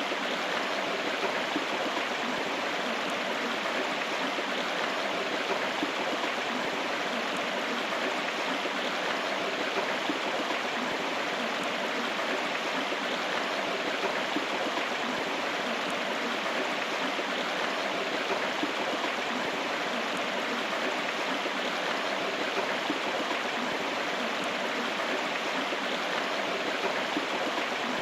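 A river's flowing water rushing and splashing steadily, with no breaks.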